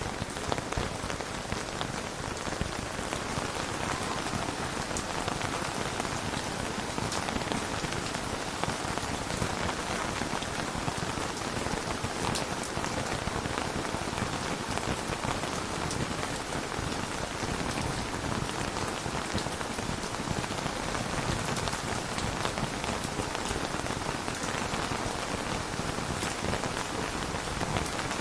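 Steady rain falling on a surface, a dense even patter with occasional sharper drop ticks.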